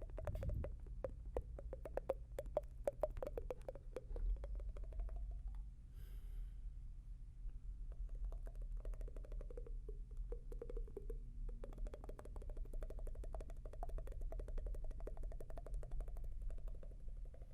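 Close-miked ASMR mouth sounds: a dense run of quick, wet tongue and lip clicks and pops, with a short hiss about six seconds in, over a steady low background hum.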